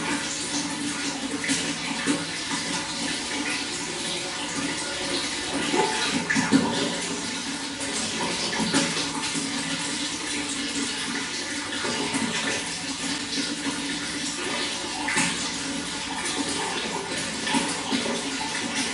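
Running water flowing steadily, with many small splashes throughout.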